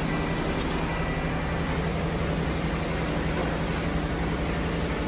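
Steady mechanical hum with a constant low tone over an even noise, unchanging throughout.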